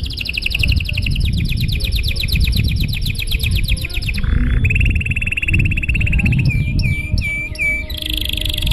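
Domestic canary singing a long song made of different tours: a fast rapid trill that breaks off about four seconds in, then a steady rolled tour, a short run of about five slurred notes, and another fast trill starting near the end. A steady low rumble runs underneath.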